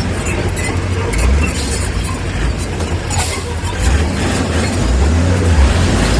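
A heavy diesel earthmoving machine running with a steady low rumble, with a few light knocks in the first half.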